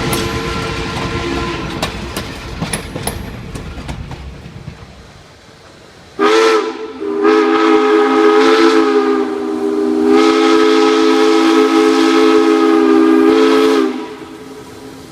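Steam locomotive's chime whistle sounding a loud multi-note chord: one short blast, then a long drawn-out blast. Before it, the train rolls by with wheel clicks over the rail joints, fading away.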